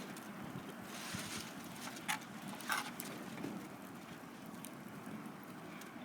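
Wood campfire burning with a steady soft hiss and a few sharp crackling pops, the loudest about two and three seconds in.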